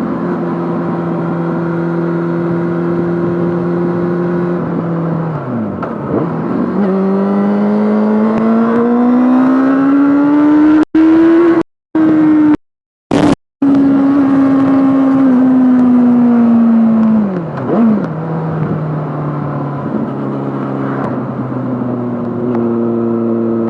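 Yamaha Fazer 600's inline-four engine running through a handmade exhaust under way, the revs holding steady, dropping and climbing again several times as the rider changes speed and gear. The sound cuts out completely a few times, briefly, about halfway through.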